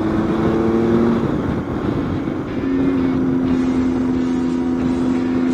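Motorcycle engine running at a steady cruise while being ridden; about two seconds in the engine note drops to a lower pitch and then holds steady.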